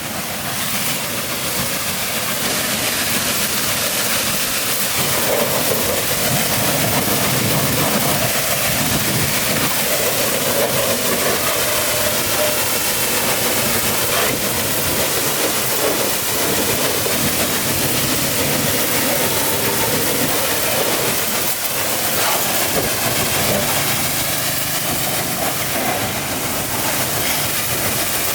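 Steady, continuous hissing machine noise with an engine-like running sound underneath.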